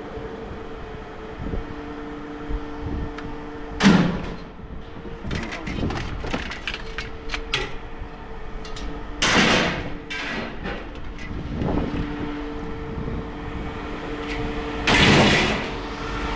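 Pieces of scrap metal clanking as they are handled and tossed onto a pile. There are three louder crashes about 4, 9 and 15 seconds in, with lighter knocks and clinks between them, over a steady engine hum.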